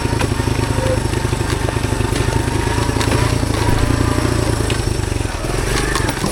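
Honda CT110 postie bike's small single-cylinder four-stroke engine running steadily while riding, with scattered clicks and knocks over it. The engine note shifts about five and a half seconds in.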